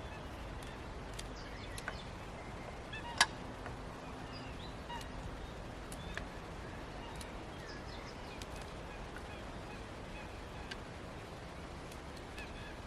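Faint bird chirps over a steady outdoor background, with scattered light clicks and one sharp click about three seconds in.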